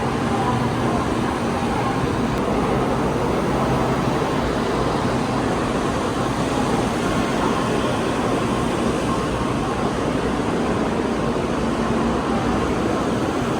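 Steady ambience of a crowded Shinkansen station platform: a constant murmur of many voices over the hum of trains and station machinery.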